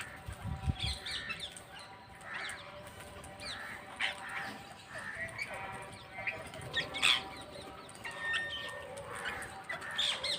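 Parrots calling: many short, harsh squawks and chirps, one after another, the loudest about seven seconds in. A few low thumps in the first second.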